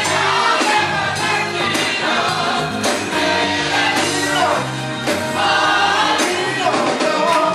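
A gospel choir singing with instrumental accompaniment.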